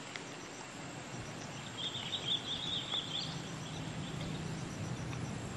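Quiet outdoor ambience with a bird's rapid chirping trill about two seconds in, lasting just over a second; a faint low steady hum comes in near the end.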